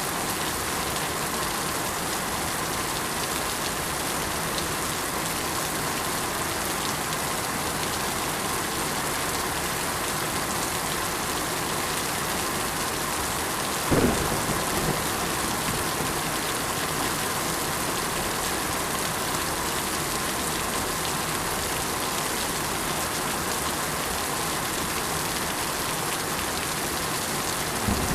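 Steady rain falling on surfaces, an even, unbroken hiss of drops. About halfway through, a single sudden, louder sound breaks in briefly, dropping in pitch, and a smaller one comes near the end.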